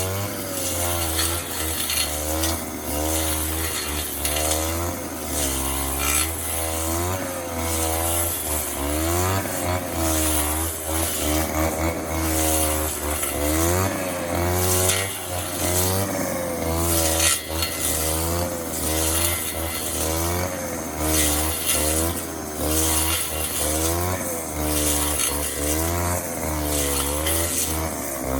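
Small petrol engine of a 25-year-old Robin grass cutter running, its pitch rising and falling over and over as the engine speed changes.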